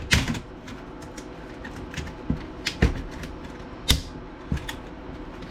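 Irregular sharp clicks and snaps of hard plastic as the keyboard trim of a Dell Latitude E5500 laptop is worked loose, about seven in a few seconds.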